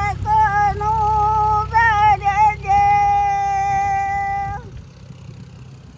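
A high female voice singing a melodic line with bending, ornamented notes. It holds one long steady note and breaks off about four and a half seconds in, over a low rumble.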